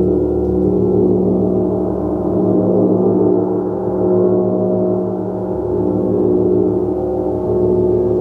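A gong played continuously with soft repeated strokes, a dense wash of sustained overtones that swells and ebbs every couple of seconds.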